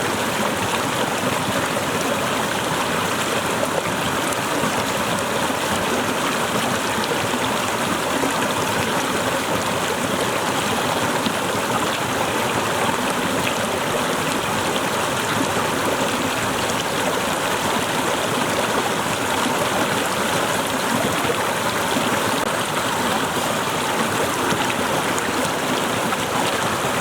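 Small waterfall splashing and flowing steadily.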